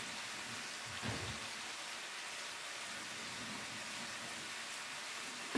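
Stuffed pork chops sizzling as they brown in a frying pan, a steady even hiss, with a soft knock about a second in.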